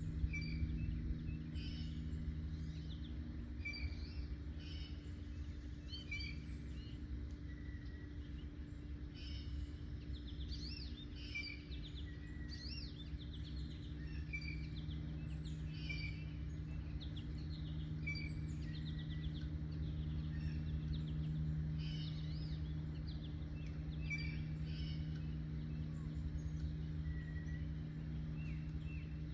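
Several birds chirping and calling in quick short notes throughout, over a steady low hum.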